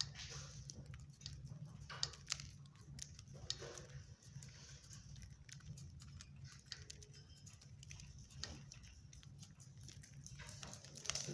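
Budgerigar chicks making short raspy calls, with scattered light clicks and scratching, over a faint steady hum.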